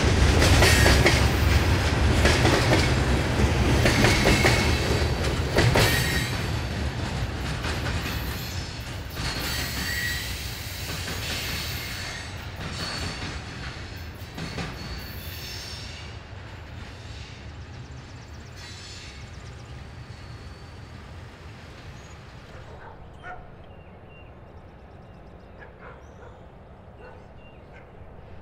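Railroad cars rolling past with wheel clatter and intermittent high wheel squeal, then fading steadily as the train moves away.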